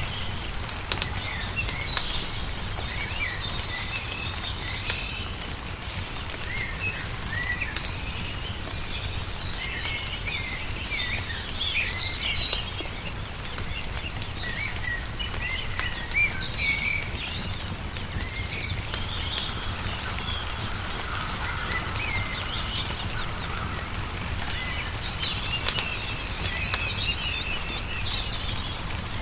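Wood fire crackling with frequent sharp pops, over small birds chirping and trilling almost constantly, with a steady low rumble underneath.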